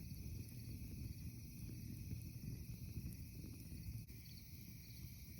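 Steady chorus of chirping insects with a low, uneven rumble beneath it. Both drop in level abruptly about four seconds in.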